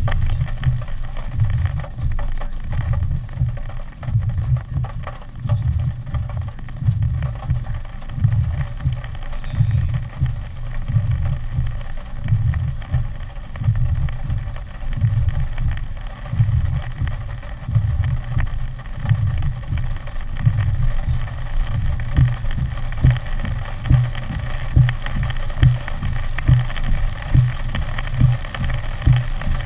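Hurricane Harvey's storm wind gusting and buffeting the microphone in irregular low rumbles, over a steady rushing hiss.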